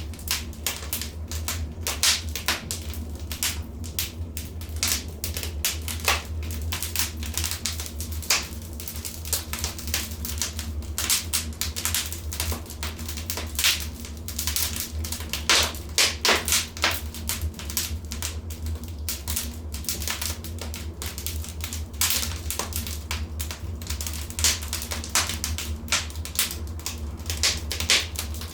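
Wood fire burning in a fireplace: irregular sharp crackles and pops, some in quick clusters, over a steady low rumble of the flames.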